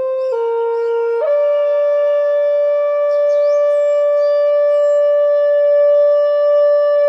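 Flute playing a slow melody: a brief note, a slightly lower one, then a higher note held steadily for about six seconds.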